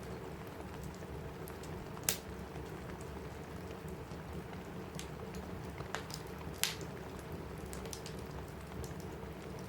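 Steady rain on a cabin roof with a crackling wood fire: scattered sharp pops and snaps over the rain, the loudest about two seconds in and again past the middle.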